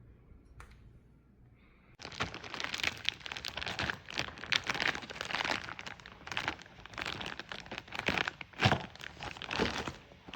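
Plastic being handled, with dense, irregular crinkling and crackling that starts about two seconds in and stops abruptly at the end.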